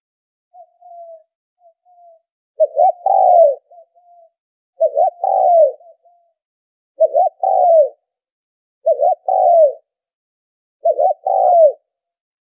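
Spotted dove cooing: a few soft short notes, then a loud phrase repeated five times about every two seconds, each a quick double note followed by a longer coo that falls in pitch.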